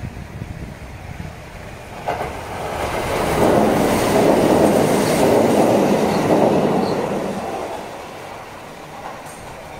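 Kintetsu electric commuter train passing close by: its running noise builds from about two seconds in, is loudest in the middle, and fades away near the end as the train moves off.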